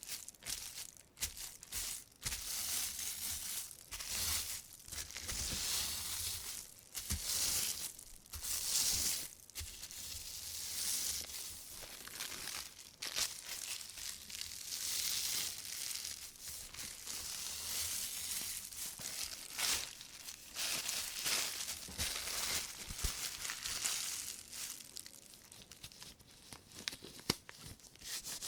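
Thin white plastic shopping bag crinkling and rustling as rubber-gloved hands rub and scrunch it, in crackly swells with brief pauses and a few sharp crackles.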